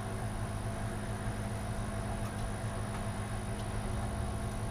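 A steady low hum with a faint high whine, and a few faint small ticks.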